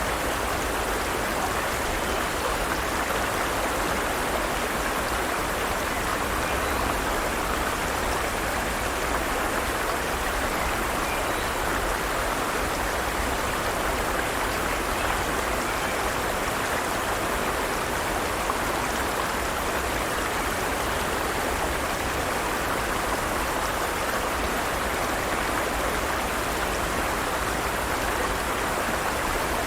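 Forest stream flowing over rocks: a steady, even rush of running water with no change.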